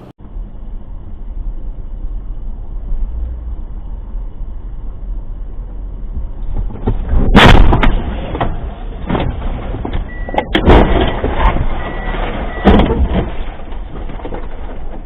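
Steady road and engine rumble from inside a moving car. About halfway through comes a loud crash, and a few more sharp bangs follow a few seconds later: a vehicle collision.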